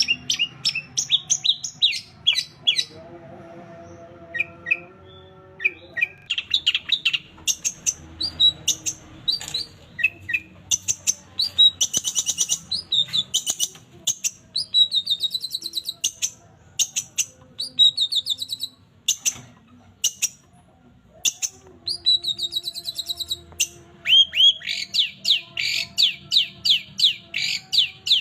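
Long-tailed shrike singing in fast runs of sharp, rapidly repeated chirps and short downward-sweeping notes, broken by brief pauses.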